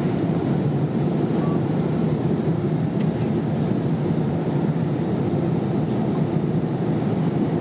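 Steady in-flight cabin drone of a Boeing 787-8 airliner: engine and airflow noise, even and low-pitched, with no change in level.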